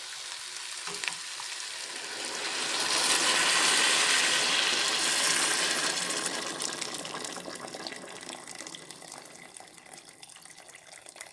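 Water poured into a hot pot of spiced lamb curry: a rush of pouring and hissing that swells a couple of seconds in, then slowly fades away.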